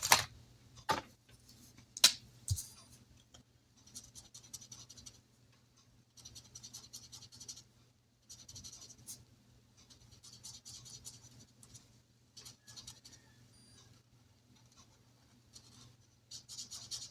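Pen scratching on paper in several short spells of strokes, colouring in a paper chart, after a few sharp clicks of handling near the start.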